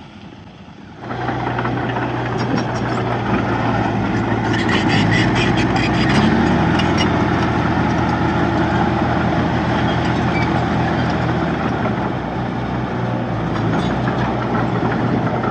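Heavy diesel engine of earthmoving machinery running steadily, coming in suddenly loud about a second in, with a rapid clattering over it from about four to seven seconds in.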